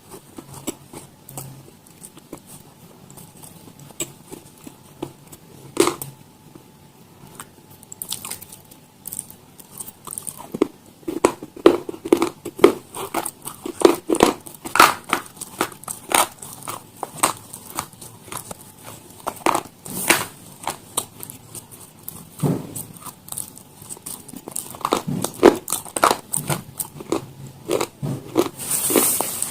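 Crunchy food being bitten and chewed: a rapid, irregular run of sharp crunches and cracks, coming in busy stretches with quieter gaps between.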